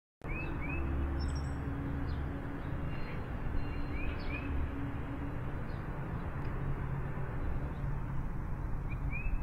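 Outdoor ambience of small birds chirping, short rising chirps coming in pairs a few times with some higher calls, over a steady low background rumble.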